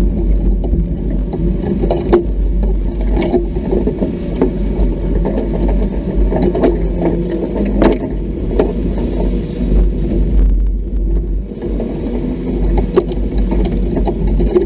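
Off-road vehicle engine running steadily over rough ground, with frequent knocks and rattles from the bumps.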